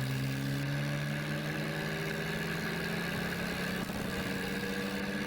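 Tractor engine running steadily, its pitch creeping slowly upward as the revs rise a little.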